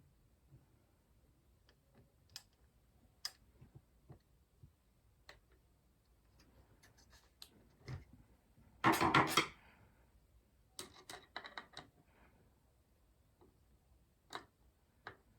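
Hard plastic and metal parts of a CPU air cooler being handled and fitted: scattered light clicks and taps, a short louder clattering rattle about nine seconds in, and a quick run of clicks a couple of seconds later.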